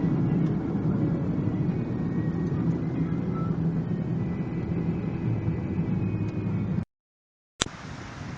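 Truck driving, a steady low engine and road rumble. About seven seconds in the sound cuts off to brief silence, then a click and quieter wind noise.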